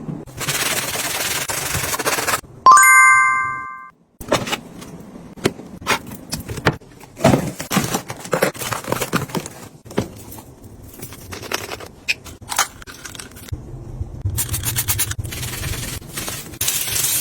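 Snack packaging being handled: a stretch of rustling, then many light clicks and knocks as items are set down and sorted. A bright chime sound effect rings out about three seconds in.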